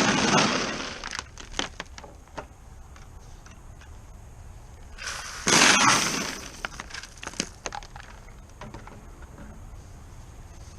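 Dry feed (pasta and grain) poured out of a bucket in two rattling pours about five seconds apart. Each pour is followed by scattered clicks of pieces landing.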